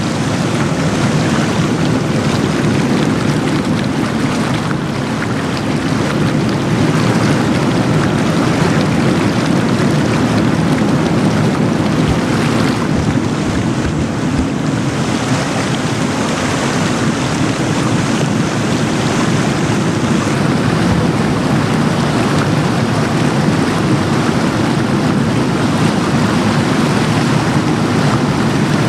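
Heavy rain falling on trees, a muddy river rushing past and wind blowing through the forest, together making a loud, steady, unbroken rushing noise.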